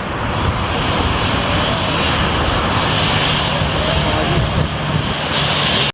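Jet airliner passing low on final approach, its engine noise swelling over the first second and then holding loud and steady, with a high whine over a broad rush.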